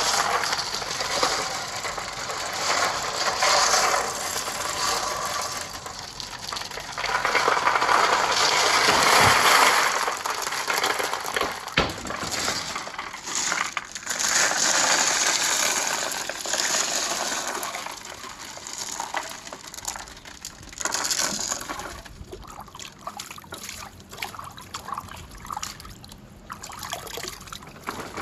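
Marbles rolling along a marble-run track: a continuous rolling rush that swells and fades, with scattered clicks and one sharp click about twelve seconds in.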